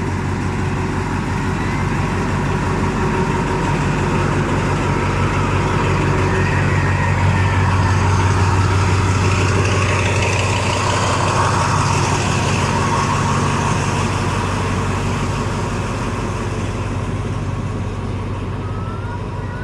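A vehicle's engine running steadily with a low hum, growing louder towards the middle and easing off again near the end.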